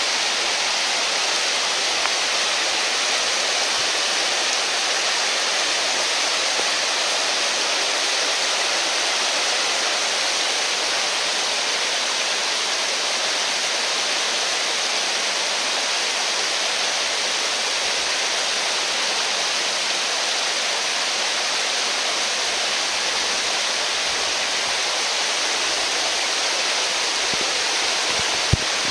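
Steady rushing of flowing water, an even noise with no breaks, and a single small click just before it cuts off.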